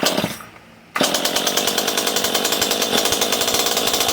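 Stihl two-stroke chainsaw engine giving a short burst, then about a second in catching and running steadily at an even pitch. It is being test-started after sitting unused, primed with a little fuel.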